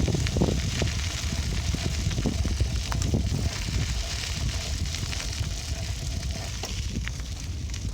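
Riding a bicycle: wind buffeting the microphone as a steady low rumble, with scattered clicks and crackles from the bike and tyres on the road surface.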